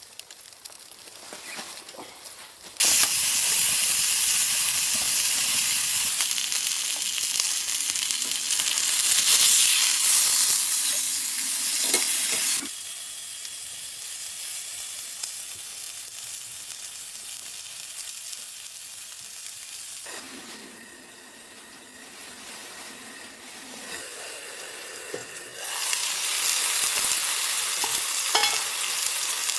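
Food sizzling in a hot frying pan. The sizzle starts suddenly about three seconds in, dies down to a quieter sizzle around the middle, and picks up loudly again near the end.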